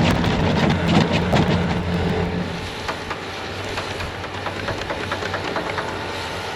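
Bobcat T66 compact track loader's diesel engine running steadily, with rattling and clanking over it that are busiest in the first few seconds.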